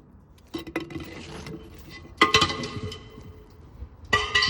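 An object dropped down a metal vent pipe into an underground fuel bunker, knocking against the pipe several times as it falls. Each knock is followed by a ringing echo from the pipe.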